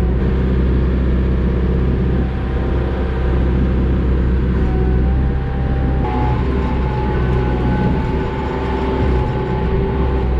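Kioti RX 7320 tractor's diesel engine running steadily under load while working the grapple. A steady whine runs over it and steps up in pitch about six seconds in.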